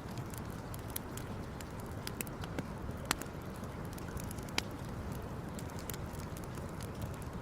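Wood campfire crackling: scattered sharp pops over a steady low rush, with two louder snaps about three and four and a half seconds in.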